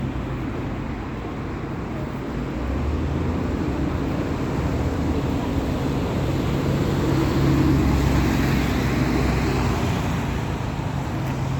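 Steady road traffic noise, with a heavy vehicle's engine growing louder as it passes, loudest about eight seconds in, then easing off.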